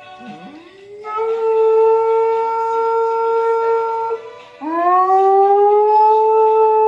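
Dog howling: two long howls, each rising in pitch at the start and then held steady, the first lasting about three seconds.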